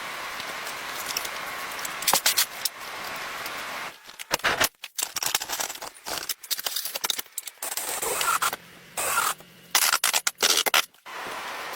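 A steady hiss, then a string of short scraping, clicking and rattling sounds from hand work on metal parts, cut off abruptly several times.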